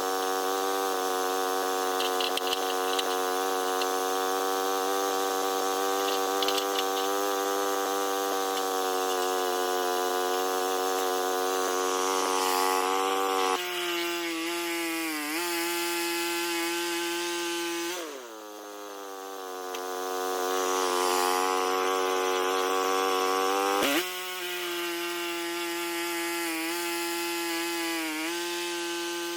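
A small sawmill's engine runs steadily with the saw going. About halfway through its pitch drops, it dips and climbs back a few seconds later, a sharp click follows near the end, and then the pitch sinks.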